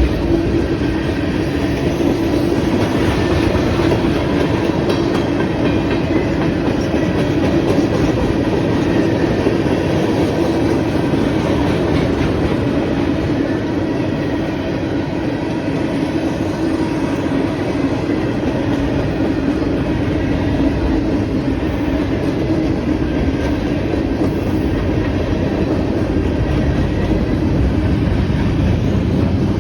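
Freight cars of a manifest train rolling steadily past over a grade crossing, the wheels on the rails making a continuous rumble.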